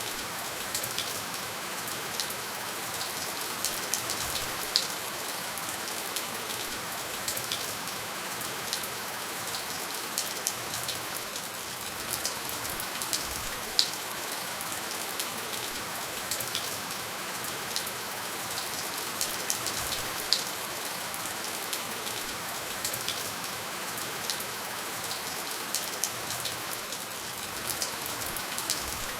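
Steady, gentle rainfall: an even hiss of rain with many close, individual drops ticking on a surface, a few of them louder than the rest. No thunder.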